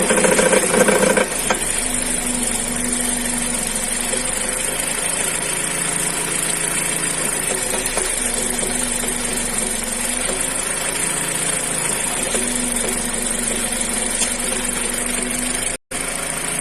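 Mazda CX-5 2.0 Skyactiv petrol engine running with a knock from where the engine joins the automatic gearbox, a little louder for the first second or so and then steady. The knock is the sign of a cracked flywheel drive plate.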